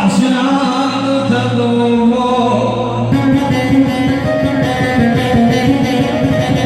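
A male singer performing a mawwal, a Middle Eastern sung improvisation, with long held and ornamented notes over instruments; the accompaniment turns fuller and busier about three seconds in.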